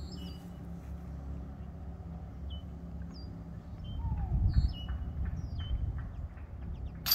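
A small bird chirping repeatedly in short, high calls over a low, steady rumble that swells briefly about halfway through.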